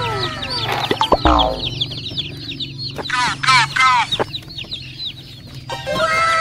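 Young chicks peeping in repeated short falling chirps, thinning out in the middle and crowding back in near the end. About a second in, a short crackle and sharp knocks as the cardboard box is pulled open.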